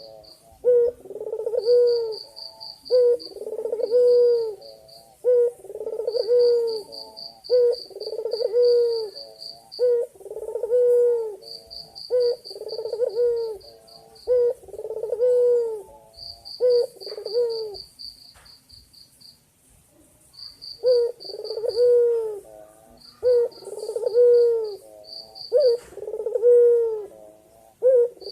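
A male white Barbary dove cooing over and over, one low coo about every second, calling to a female. The cooing breaks off for about two seconds near the middle, then starts again. Between the coos there are short runs of a high, rapidly pulsed trill.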